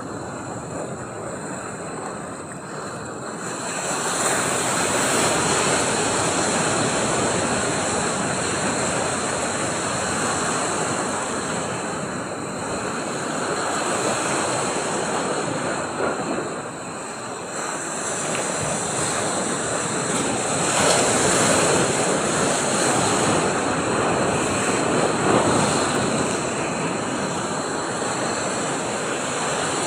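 Ocean surf: a steady wash of breaking waves that swells louder about four seconds in and again about twenty seconds in.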